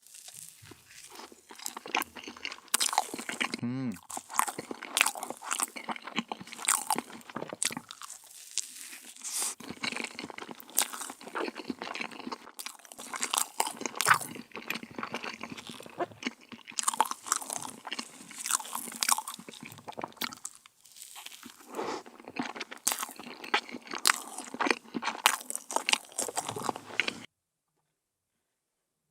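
Close-up crunching and chewing of brittle meringue cookies: runs of sharp crackles, pausing briefly twice, then stopping a couple of seconds before the end.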